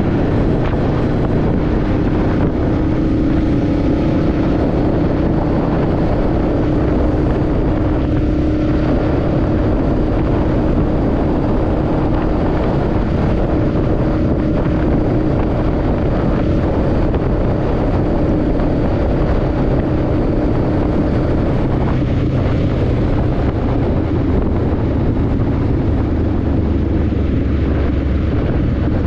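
Motorcycle engine running steadily at cruising speed, its note holding an even pitch, with heavy wind noise on the microphone.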